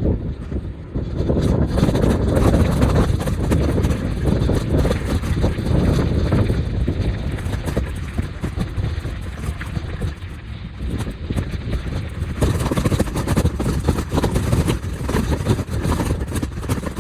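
Wind buffeting the microphone during a bike ride, a loud, gusty low rumble mixed with road noise and small rattles.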